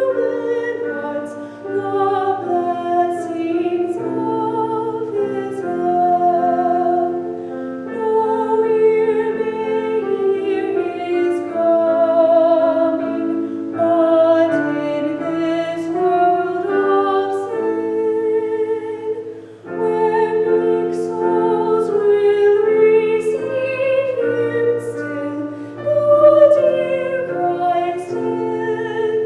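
Female soloist singing in a trained, operatic style with vibrato, accompanied by piano.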